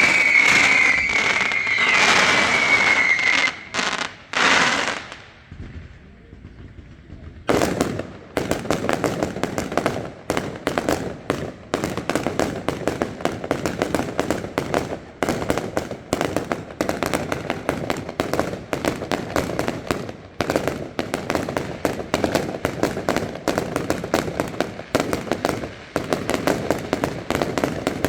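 Fireworks: a loud whistle that falls slightly in pitch over the first few seconds, then after a short lull a dense, rapid crackling barrage of many sharp cracks a second that keeps going.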